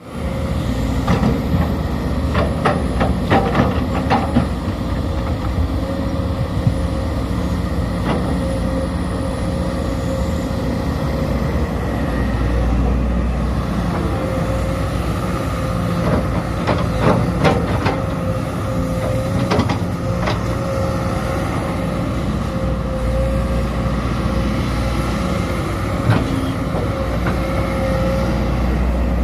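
Sumitomo SH210 excavator's diesel engine running steadily with a constant whine, and clusters of sharp metal knocks a second or two in and again past the middle.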